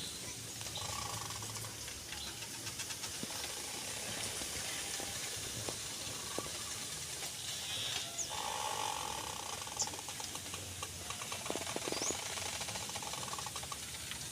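Steady outdoor hiss with a few short, high, rising chirps from birds scattered through it.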